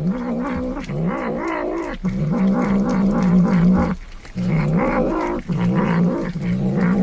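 A cat yowling in a string of long calls that waver in pitch, about five of them, each lasting a second or two.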